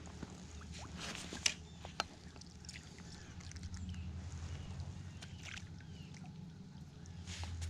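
Kayak being paddled, with the paddle splashing in the water and a couple of sharp knocks about a second and a half and two seconds in.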